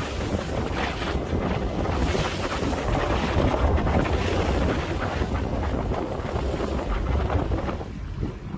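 Wind buffeting the microphone over the wash of water, aboard a sailboat under way; the wind eases slightly near the end.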